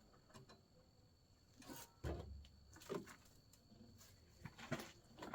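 Faint, scattered knocks and clicks of hands working on a riding mower's deck belt tension adjustment, with a dull thump about two seconds in.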